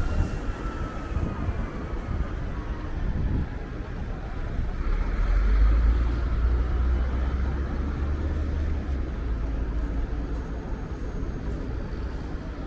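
Street traffic passing by, with strong wind buffeting the microphone in a low rumble that is heaviest about halfway through.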